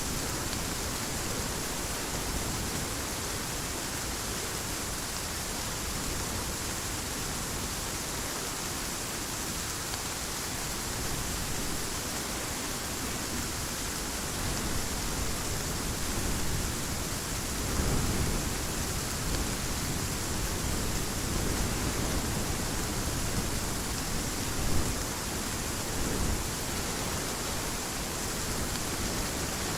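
Heavy rain falling steadily, a dense even hiss, with a few brief low swells in the second half.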